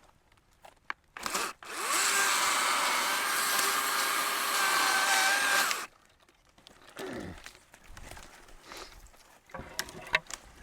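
Chainsaw running hard for about four seconds, starting about a second and a half in and cutting off suddenly, with scattered knocks and shuffling before and after.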